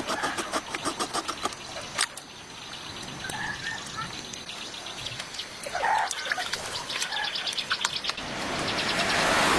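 Birds chirping a few times over a run of quick clicks.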